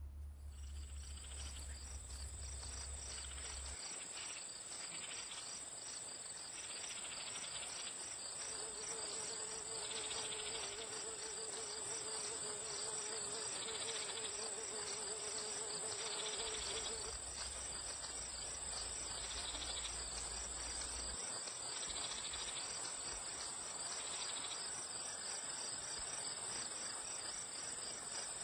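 Insects chirring steadily in the forest: a constant high whine over a fast, pulsing chirp. A lower buzz joins for several seconds about a third of the way in.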